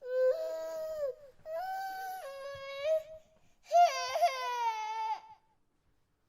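Infant crying: three wails, each about a second to a second and a half long, with short pauses between them. The third wail wavers and breaks in pitch.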